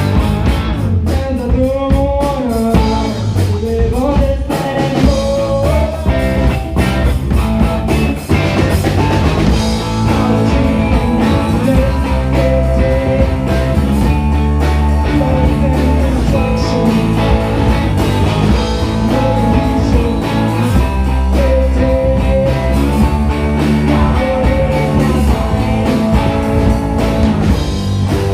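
Live band playing a funky blues-rock song, led by guitar over a steady bass and rhythm.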